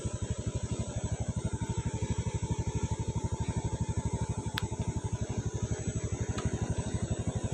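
Motorcycle engine running at a steady speed, a rapid even throb. A single short click sounds about four and a half seconds in.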